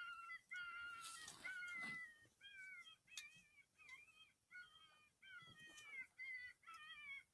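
Faint, repeated animal distress cries, short wavering calls that drop in pitch, about two a second. They fit an electronic predator caller playing a prey distress sound to bring in coyotes.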